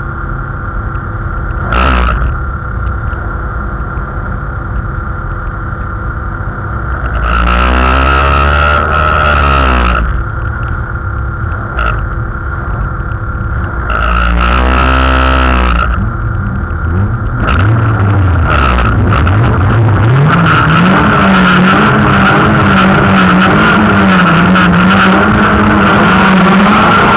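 Race car engine heard from inside the cabin, idling, then blipped in two revving bursts of a couple of seconds each. Over the last several seconds the revs climb and are held high and steady with engine noise from the surrounding cars, as the lined-up cars start to pull away.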